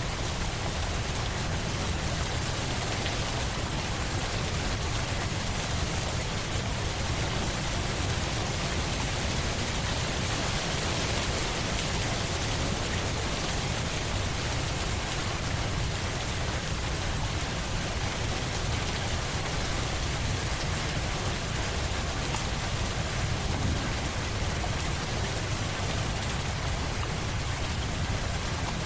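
Steady rain falling, an even hiss of drops on a surface with no distinct events.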